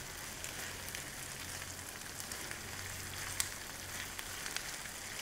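Salt cod with onion and garlic sizzling steadily in olive oil in a frying pan, with a few light pops.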